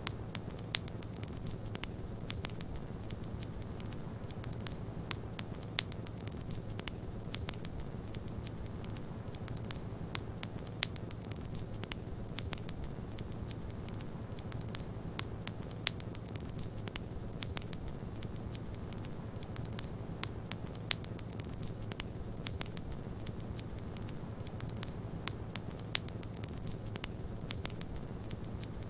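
Wood fire crackling in a fireplace: a dense run of small snaps with a louder pop every few seconds, over a steady low rumble of snowstorm wind.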